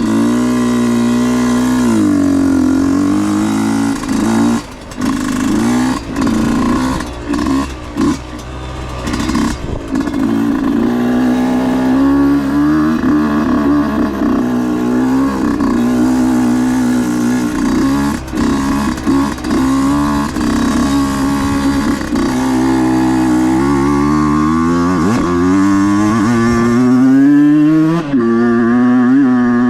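Husqvarna enduro dirt bike engine being ridden, the revs rising and falling with the throttle. Several short drops in revs come in the first third, and the revs climb near the end.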